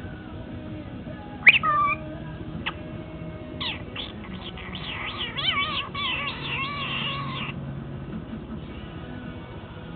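A pet parrot calling. A loud rising squawk comes about a second and a half in. From about three and a half seconds in, a run of wavering, chattering notes goes on for about four seconds.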